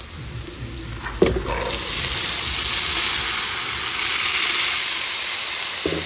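Black chickpeas (kala chana) tipped into a kadai of hot oil and frying onions: a quiet sizzle, a knock about a second in, then the sizzle grows louder and holds steady as the chickpeas start to fry.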